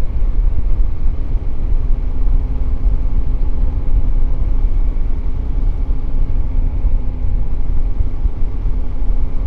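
Yamaha Ténéré 700's parallel-twin engine running at a steady cruising speed, its steady drone mixed with heavy low rumble from wind and road.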